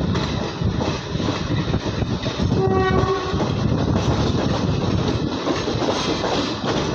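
ICF passenger coach running over the rails at speed: a steady rumble and rattle of wheels on track. About two and a half seconds in, a locomotive horn sounds one short note of about half a second.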